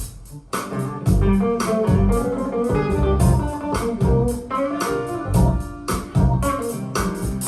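Recorded music played back over Tannoy Platinum B6 speakers with a subwoofer: an instrumental passage with guitar and organ over a steady low beat, dipping briefly at the start.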